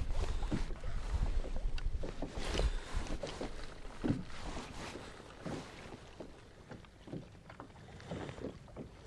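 Water slapping and lapping against a kayak hull, with scattered light knocks. Wind rumbles on the microphone for the first few seconds.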